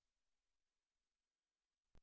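Near silence: the gap between two songs, with a tiny click just before the next song starts.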